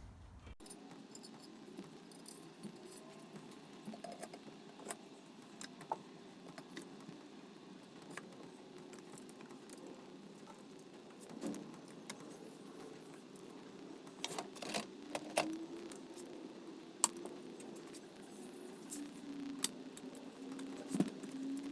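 Small metal parts clinking and clicking as washers and circlips are fitted onto the wheel shafts of a Scott Bonnar Model 38 edger, with scattered sharp clicks over a faint steady hum.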